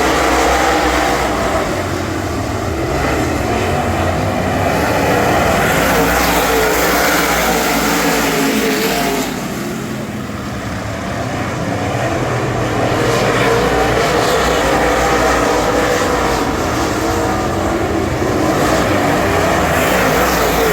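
Super late model race car's 422-cubic-inch Ford V8 running hard on track, its pitch rising and falling. About nine seconds in the engine drops back briefly, then climbs again.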